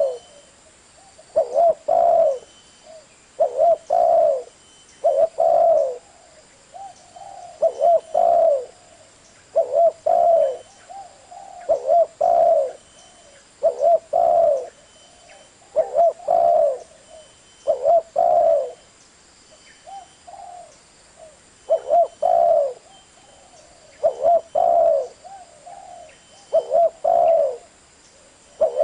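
Spotted dove cooing over and over: loud, low, wavering coo phrases of a few notes, repeated about every two seconds.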